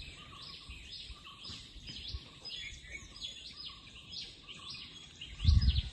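Birds chirping over and over in the background, several short high chirps a second, with a brief low thump near the end.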